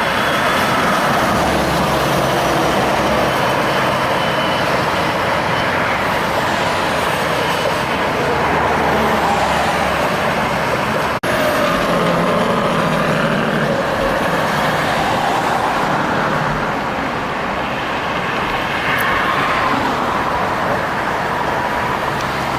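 Heavy road traffic with diesel trucks passing: a steady engine drone and tyre noise. The sound cuts out for an instant about halfway.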